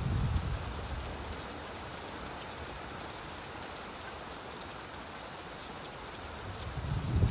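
Steady rain falling. A low rumble of thunder dies away in the first second, and another begins to swell near the end.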